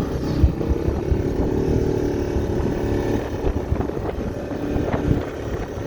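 1985 Honda ATC Big Red 250ES three-wheeler's single-cylinder four-stroke engine running steadily while it plows snow, with a few short knocks along the way.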